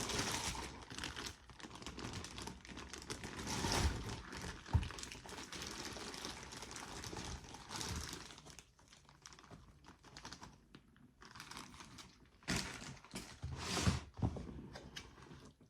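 Takeout seafood boil being dumped from its crinkling packaging into a bowl: continuous rustling and crinkling for about eight seconds, with a couple of soft thuds around four and five seconds in, then quieter, with more short bursts of rustling near the end.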